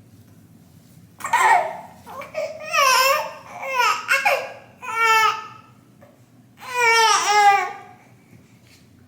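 A three-month-old baby cooing and babbling, about five high-pitched calls with rising and falling pitch, the longest near the end.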